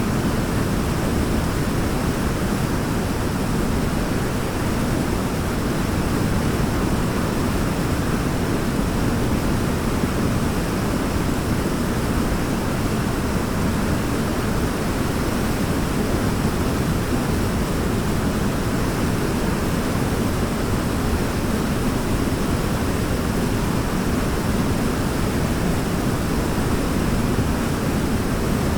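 Waterfall pouring steadily: a deep, even rush of falling water with no changes.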